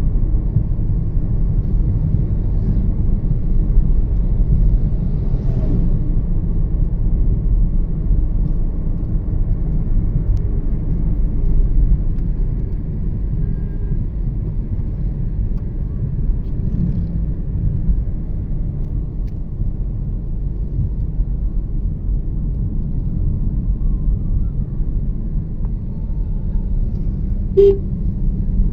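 A Toyota Yaris 1.5 driving steadily on the road, heard from inside the car: a continuous low rumble of engine and tyre noise. There is one short click near the end.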